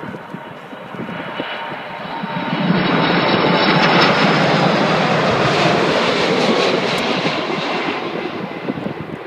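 Boeing 747 jet engines on landing, the noise swelling as the airliner passes, loudest a few seconds in, then fading, with a faint steady whine over the rush.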